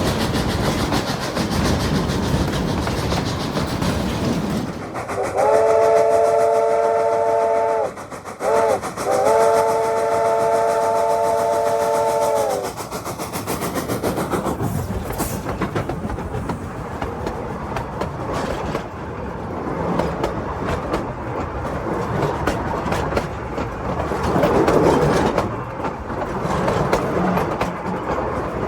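Narrow-gauge D&RGW K36 steam locomotive sounding its chime steam whistle: a long blast, a brief toot and another long blast. The train's running noise and wheels clattering over the rails go on underneath.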